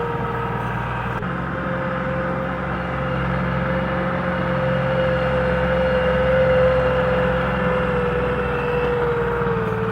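Tractor's diesel engine running steadily, with a steady whine that falls slightly in pitch near the end.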